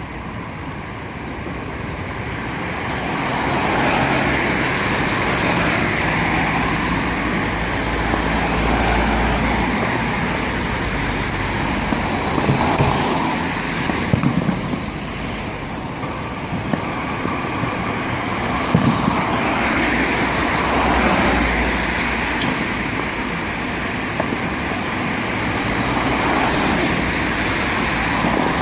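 Road traffic: vehicles passing, the engine and tyre noise swelling and fading in waves, with a few short sharp cracks around the middle.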